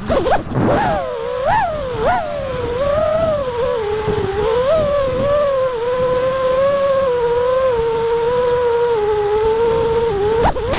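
FPV quadcopter's motors and propellers whining, the pitch jumping up and down sharply with quick throttle changes in the first couple of seconds, then holding fairly steady with small wavers.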